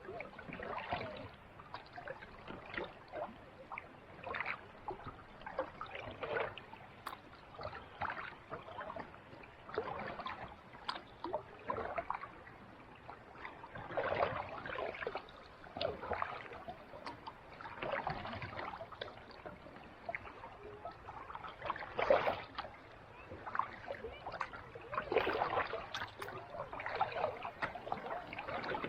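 Kayak paddle strokes in calm sea water: a swish and splash about every second or two, with water trickling off the blade between strokes.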